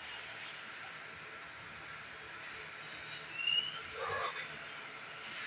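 A bird gives a short high chirp about three and a half seconds in, over a steady background hiss, with a faint thin whistle near the start and a brief dull noise just after the chirp.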